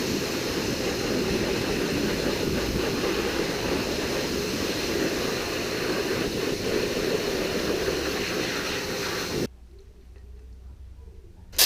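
Water spraying hard and steadily onto a dirt bike during a wash, a continuous hiss that cuts off suddenly about nine and a half seconds in, leaving a faint low rumble.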